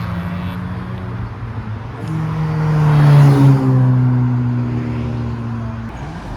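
Car engines running as cars drive out of a car park; about two seconds in one car comes by close, growing louder and then dropping in pitch as it passes.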